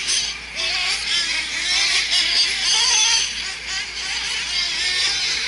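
Several nitro-powered RC trucks' small two-stroke glow engines whining at high pitch, overlapping, their pitch rising and falling constantly as the trucks accelerate and brake around the track.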